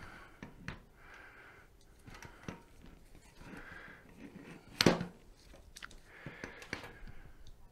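Scattered clicks and knocks of tools and metal parts being handled while a mobility scooter's motor and transaxle are refitted. The loudest is a single sharp knock about five seconds in.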